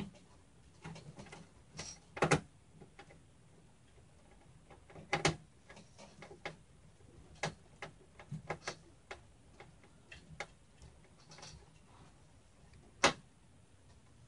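Screwdriver and small screws clicking and tapping against metal as a motherboard is screwed down onto the case standoffs: scattered irregular clicks, with one sharper knock near the end.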